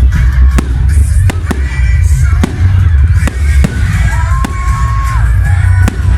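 Fireworks display: a string of sharp bangs, about one every half second, over a constant deep low rumble, with music playing along.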